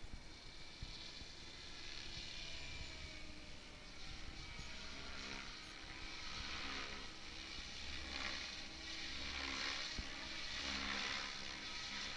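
Goblin 700 radio-controlled helicopter in flight, its drivetrain whining and rotor hissing, the pitch drifting up and down and the sound swelling louder a few times as it manoeuvres.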